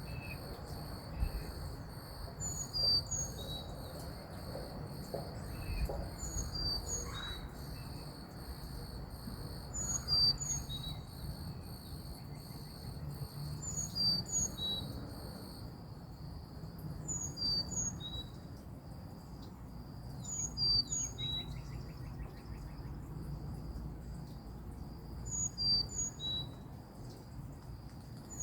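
A songbird repeating short, high two-note chirps every few seconds over a steady high trill of insects such as crickets; the highest part of the insect trill stops about halfway through.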